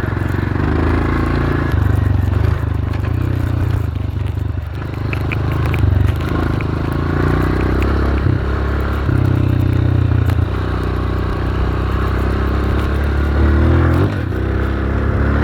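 Dirt bike engine running hard under the rider, its note surging and dropping back several times as he works the throttle and gears through sandy track.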